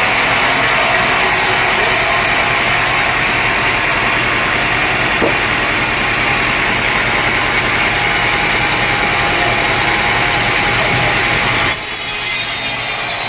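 Sawmill saw blade cutting lengthwise through a dense teak log, a loud steady sawing noise. Near the end the sound changes abruptly to a thinner, higher hiss.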